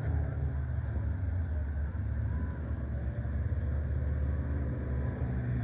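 Scramble race car engines running slowly under a caution, a steady low rumble.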